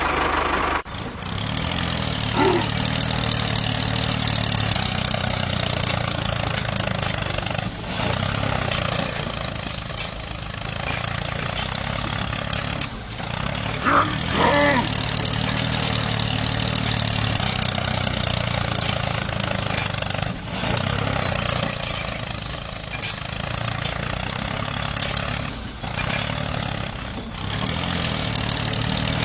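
A small tractor's motor running steadily, with a few brief dips in level and a couple of short higher sounds about two and fourteen seconds in.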